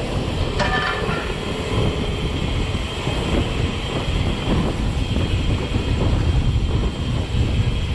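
Steady low rumble of wind buffeting the camera microphone and a mountain bike rattling over rough ground while riding, with a brief pitched squeal about a second in.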